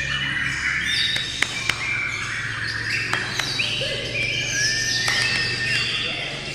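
Several songbirds chirping and singing at once, many short overlapping calls and whistled glides, with a few sharp clicks and a low steady hum beneath.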